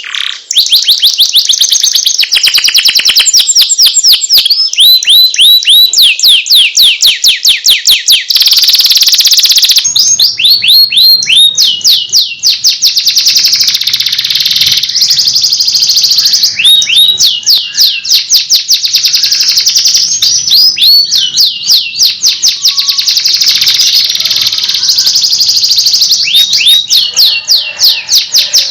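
Domestic canary singing a long, continuous song: trill after trill of rapidly repeated sweeping notes, each run at its own speed, passing straight from one phrase into the next.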